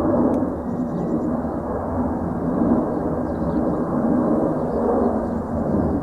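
Jet airliner taking off, heard from the ground some way off as a low, rumbling roar that swells and ebbs. Faint bird chirps sound above it.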